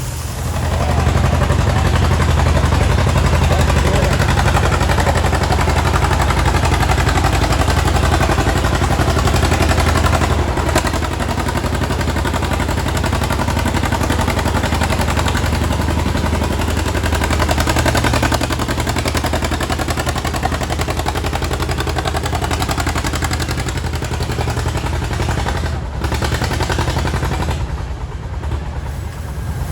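Antique tractor engine running hard under full load while pulling a weight-transfer sled down the track, its exhaust firing in rapid pulses. The engine eases off near the end as the pull finishes.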